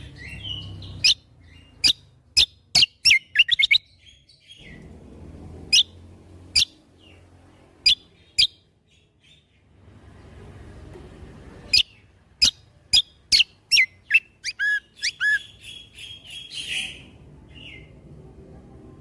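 Kecial kombo (cucak kombo) songbird singing in runs of sharp, clipped whistled notes: a rapid string about a second in, a few spaced notes in the middle, and another fast string with a short buzzy trill near the end.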